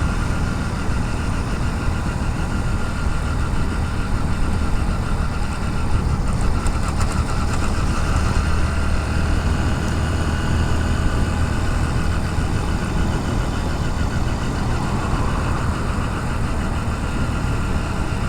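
Motorcycle engine running steadily at a moderate cruising speed of about 40, with wind and road noise heard through a helmet-mounted camera.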